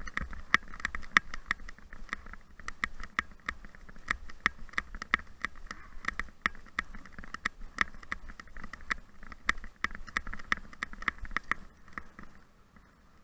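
Rapid, uneven jingling and clicking of metal gear on running Siberian huskies in harness, a few clinks with each stride, fading out near the end, over a low wind rumble.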